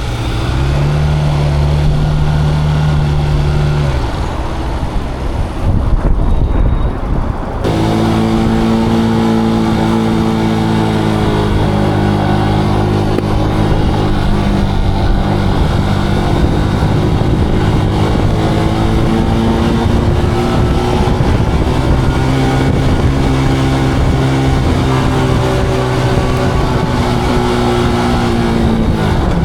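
Zontes cruiser motorcycle engine running under way. It eases off about four seconds in, then pulls again with the pitch rising and falling with throttle. Near the end the pitch drops sharply and picks up again, as at a gear change.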